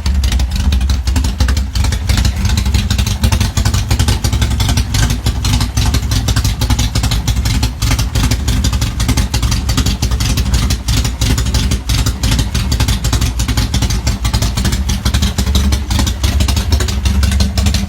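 Stroked air-cooled Volkswagen engine running steadily through an unmuffled CSP Python exhaust, loud with a rapid, even exhaust beat.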